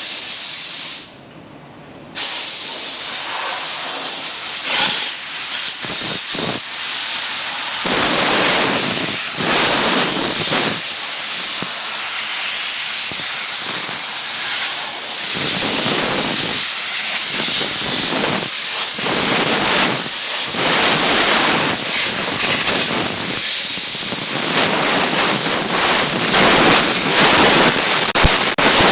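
Steam cleaner wand releasing a loud, steady hiss of steam. It cuts off about a second in, starts again a second later, then runs on with short dips.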